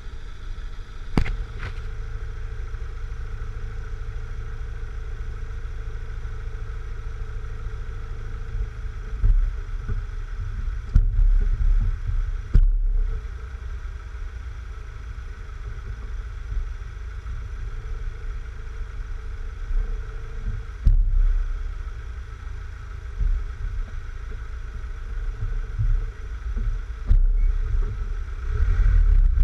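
Mk3 Volkswagen Golf's engine idling steadily while the car stands still, heard from a camera mounted low on the body by the front wheel. Low gusty rumbles come and go on the microphone several times, and there are a few sharp clicks.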